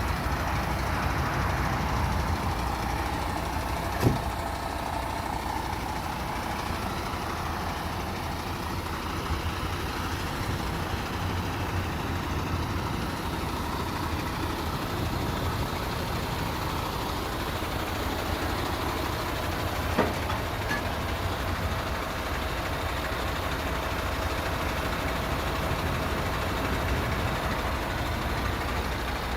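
Semi-truck tractor unit's diesel engine running steadily with a low rumble. Two short sharp clicks stand out, about four seconds in and again about twenty seconds in.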